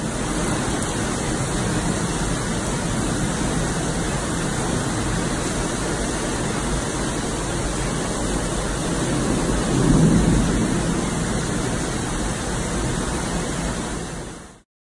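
Heavy thunderstorm downpour: a loud, steady rush of rain. It swells louder for a moment about ten seconds in, then cuts off suddenly near the end.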